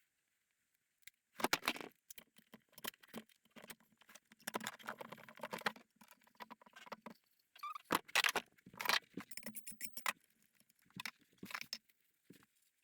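Hand work in a wood shop: irregular scraping, clicking and light knocking as tools and wood pieces are handled, in short bursts with pauses between them.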